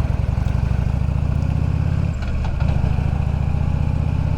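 Motorcycle engine running steadily while riding, with a brief dip in the engine sound about two seconds in.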